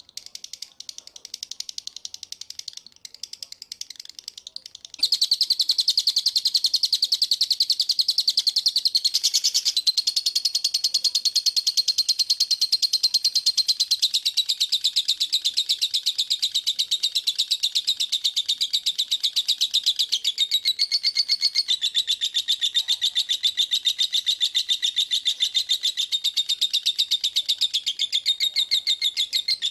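A songbird singing a fast, dense trilling song of rapid repeated high notes. It starts as fainter, broken chirping, then about five seconds in becomes loud and continuous, stepping to a new pitch a few times.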